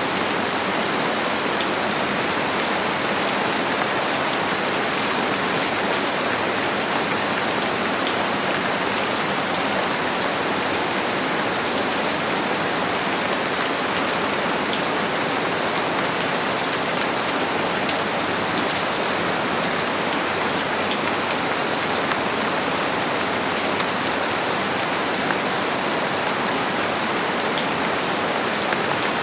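Steady heavy rain falling, a dense even hiss with many small drop impacts pattering on a surface.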